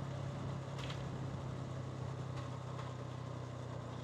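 Hansom Bike Benett 125cc motorcycle engine idling steadily, with a single short click about a second in.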